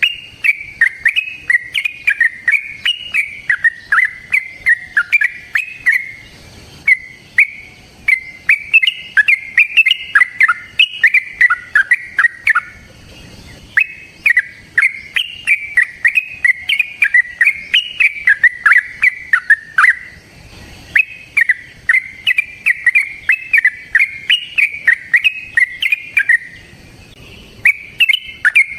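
Yellow-vented bulbul (trucukan) singing fast, bubbling chirpy phrases in long unbroken runs, with short pauses about every six or seven seconds.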